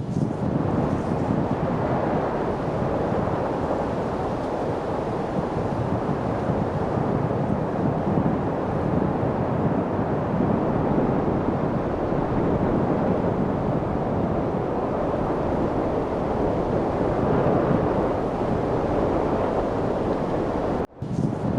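Steady light wind noise, an even whooshing rush with no distinct events. It cuts out for a split second near the end.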